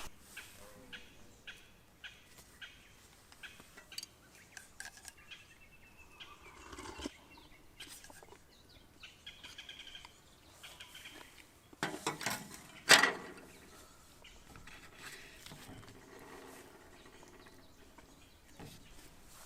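Irregular light clicks and knocks, with short high chirps of small birds now and then, and a louder clatter about twelve to thirteen seconds in.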